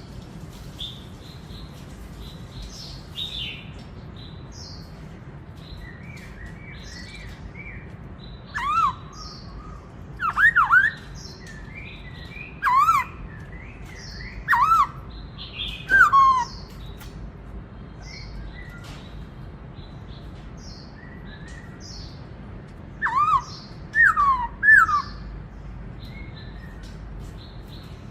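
Black-throated laughingthrush singing: loud whistled phrases of downward-gliding notes, given in bursts with pauses between them. Fainter high chirps run throughout.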